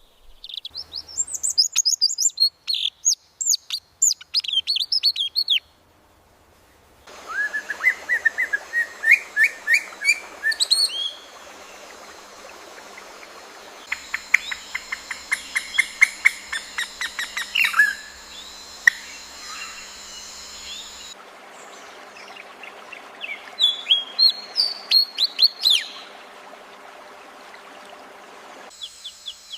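AI-generated songbird chirping in rapid phrases of quick, high, downward-sweeping notes, with short pauses between phrases. The background hiss changes abruptly several times, as if separate clips were joined.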